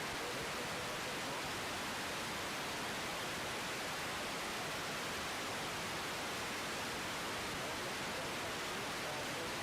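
Steady, even hiss of an air-traffic-control radio feed between transmissions, with no change in level and no engine sound rising through it.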